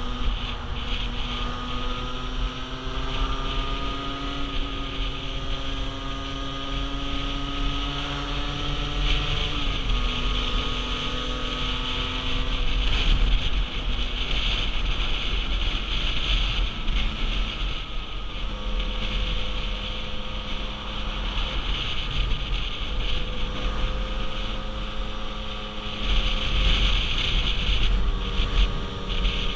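A 50cc motorbike engine running at road speed, with wind buffeting the microphone. The engine note steps down about ten seconds in, then holds fairly steady.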